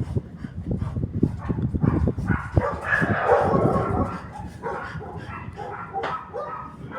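Dogs barking and yelping, over a low rumbling that fills the first three seconds.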